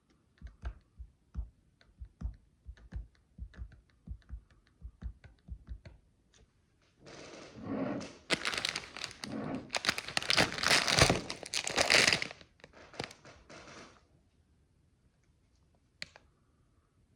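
Micro building bricks being handled: a run of soft taps and small clicks, then several seconds of loud crinkling rustle, then a single click near the end.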